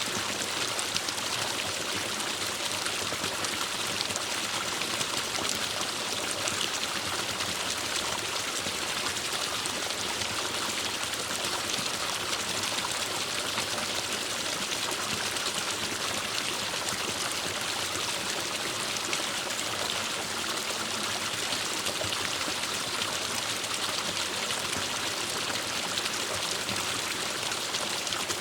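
Forest stream flowing steadily over rocks, a constant hiss of running and trickling water.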